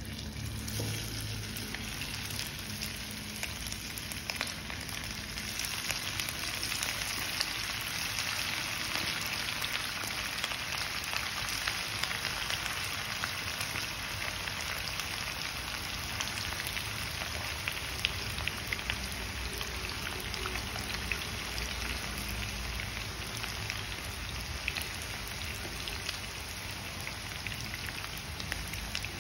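Besan-battered chicken pakoda pieces deep-frying in hot mustard oil: a dense crackling sizzle with many fine pops that builds over the first few seconds as pieces are dropped in, then holds steady.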